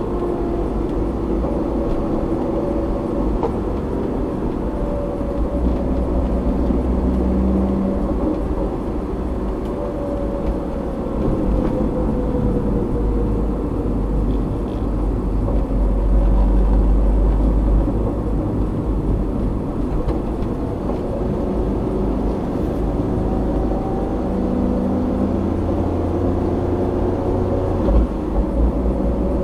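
A car being driven on a road, as picked up by a dashcam in the cabin: a steady low rumble of engine and tyre noise, with the engine note drifting gently up and down as speed changes.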